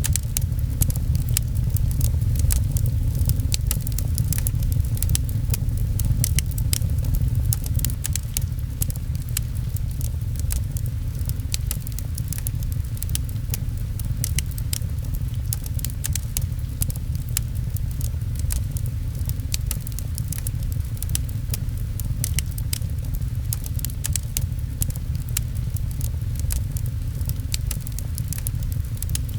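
Wood fire crackling, with frequent small sharp pops, over rain on a window and a steady low rumble.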